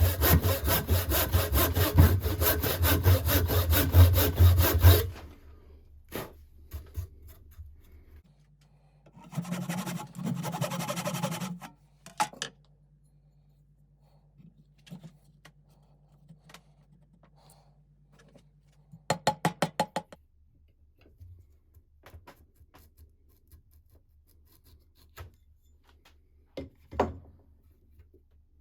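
A saw cutting wood by hand in quick, even strokes for about five seconds, then two shorter bursts of strokes around ten and twenty seconds in, and a single knock near the end.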